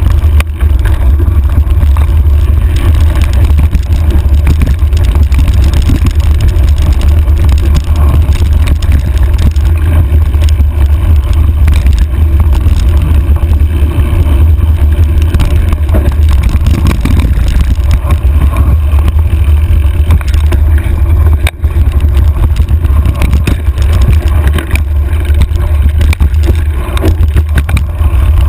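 Steady, loud low rumble of wind buffeting and trail rattle on a handlebar-mounted camera's microphone as a mountain bike rolls down a dirt trail.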